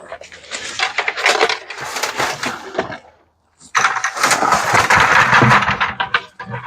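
Plastic trash bag crinkling and rustling as it is pulled open and shaken out, in two long bouts with a short pause between.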